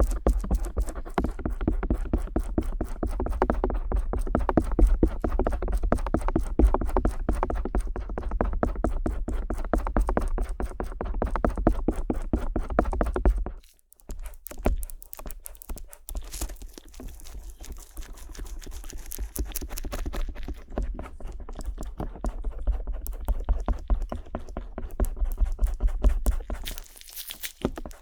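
Stainless steel ear pick scraping rapidly over the ear of a 3Dio binaural microphone, close up, as a dense run of crackling strokes. About halfway through it stops for a moment, then goes on as lighter, hissier scratching.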